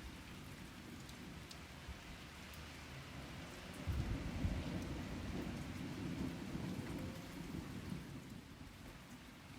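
Steady rain falling, with a low rumble of thunder breaking in suddenly about four seconds in, rolling on for a few seconds and fading away.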